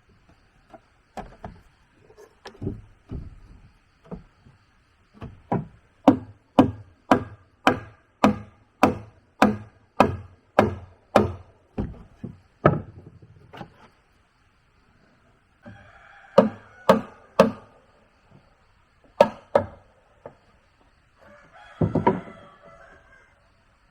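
Blows on wood: a few scattered strikes, then a steady run of about a dozen, roughly two a second, then a few more single strikes, from a tool working timber during hut building.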